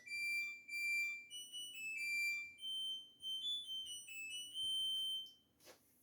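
LG Direct Drive washing machine's electronic chime playing its end-of-cycle melody: a tune of single high beeping notes that stops about five seconds in.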